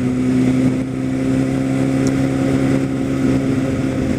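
Kawasaki Ninja ZX-10R inline-four engine running at a steady speed while cruising, a constant engine hum with no revving.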